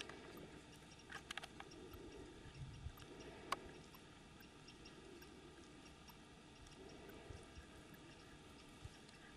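Near silence: faint outdoor background with a few soft clicks about a second in and one sharper click a little later.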